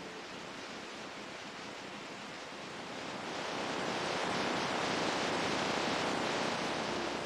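Ocean surf: a steady rush of water that swells louder about three seconds in, as a wave breaks and washes in.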